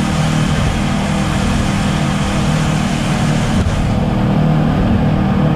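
Boat engine running steadily at speed, a constant low drone under a wash of wind and water noise.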